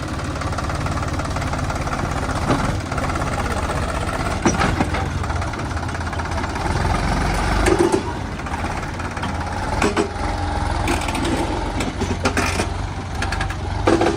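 Heavy diesel machinery running steadily at a work site, with several sharp clanks and knocks scattered through it as soil is loaded by a backhoe loader.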